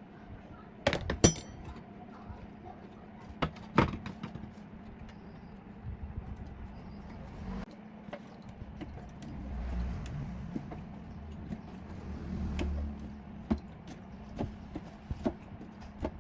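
Metal parts and tools being handled: a series of sharp metallic clinks and knocks, the loudest about a second in and again near four seconds, with softer taps and low scraping thuds between.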